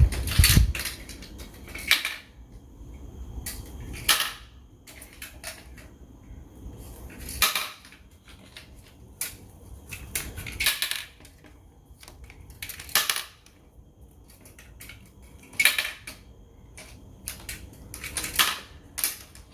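Hard game pieces being placed during play, giving irregular sharp clicks and clatters, one every second or two.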